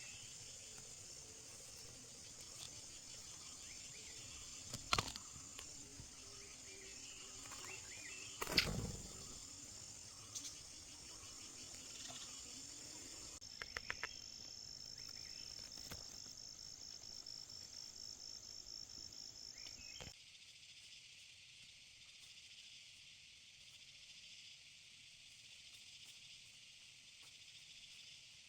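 Rainforest insect chorus: steady high-pitched buzzing and trilling that changes abruptly twice, about 13 and 20 seconds in. A few sharp knocks stand out, the loudest about 5 and 9 seconds in.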